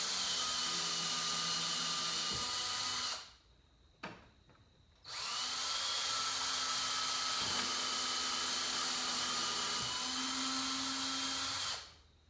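Power drill driving a screw into a pre-drilled angled pilot hole, running steadily in two long spells: one about three seconds, then after a short pause one of about seven seconds. There is a small click in the pause.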